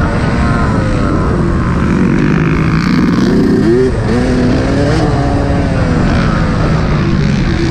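Yamaha YZ125 two-stroke 125 cc motocross bike engine revving up and down as it is ridden. The revs climb sharply about three seconds in, drop off a second later, then rise and fall again.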